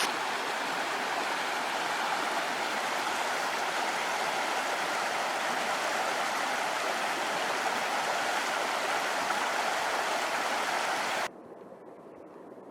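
Mountain stream rushing steadily, an even loud noise of flowing water, which cuts off abruptly near the end to a much quieter background.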